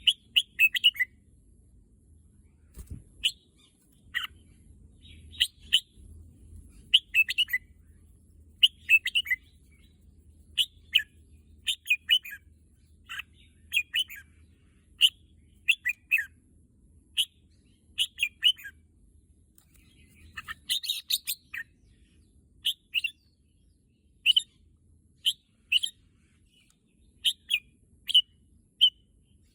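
Red-whiskered bulbul singing short chirpy phrases over and over, roughly one phrase every second or so.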